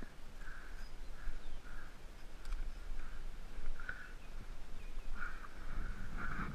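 A bird giving a run of short, harsh calls, repeated about twice a second.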